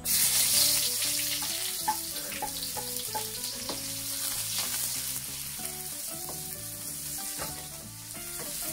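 Sliced shallots, garlic and red chilies hitting hot oil in a wok, sizzling sharply the moment they go in, then settling into a steady frying sizzle as a wooden spatula stirs them.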